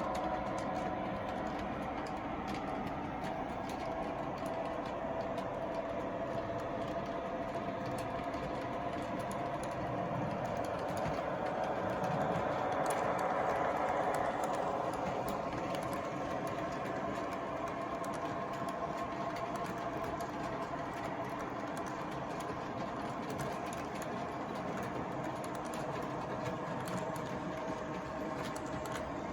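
MTH Railking O-gauge SW1500 diesel switcher model running along the track: a steady hum and rumble of motor and wheels with the onboard diesel engine sound, a little louder about halfway through.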